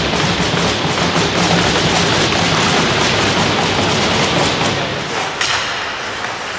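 Ice hockey play on the rink: skate blades scraping the ice and a steady run of stick and puck clicks and knocks, with a heavier thud about five seconds in.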